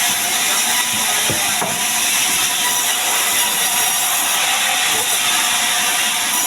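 Heavy rain making a loud, steady hiss.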